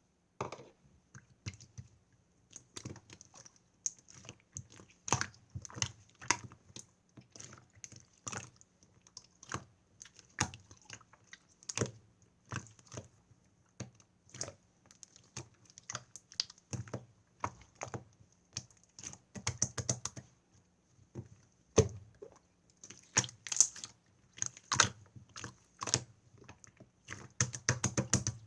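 Blue clear slime being squished and pressed by hand, making irregular sticky clicks and small pops, several a second.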